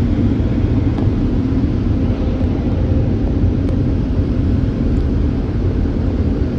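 Washworld Razor Edge touchless car wash's dryer blowers running with a steady, loud rush of air.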